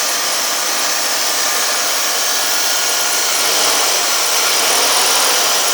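1989 Cadillac Eldorado's 4.5-litre V8 idling steadily, with a steady hiss and high whine over the engine note, running again after sitting unused for five years.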